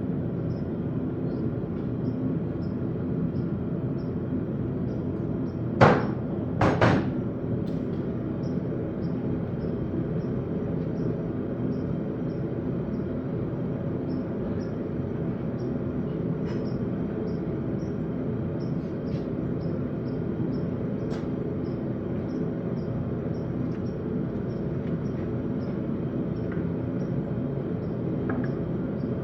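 Steady hum of a running blacksmith's forge, with two sharp metallic clanks about six and seven seconds in.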